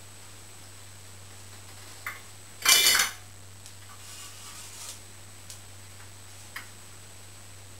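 Tools and small metal parts being handled: a short, loud burst of metallic clattering about three seconds in, with a click just before it, some light rattling after, and a few single clicks later. A steady low hum runs underneath.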